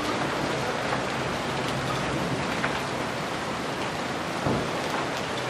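Hail and rain falling hard in a steady hiss, with scattered sharp ticks of hailstones striking. A dull knock comes about four and a half seconds in.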